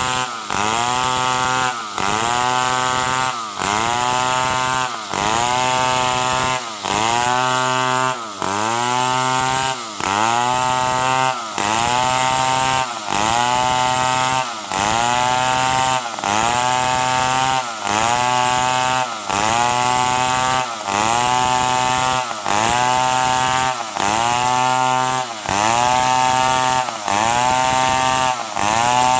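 Stihl 070 two-stroke chainsaw running hard through wood, its engine note sagging and climbing back in a steady cycle about every second and a half as the chain bites and frees in repeated cuts.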